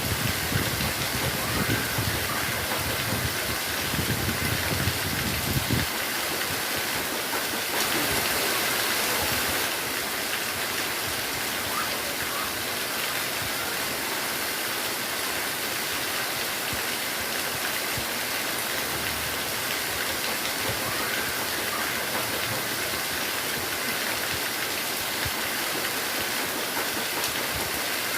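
Heavy rain pouring down steadily, a dense even hiss, with low rumbling mixed in for the first six seconds.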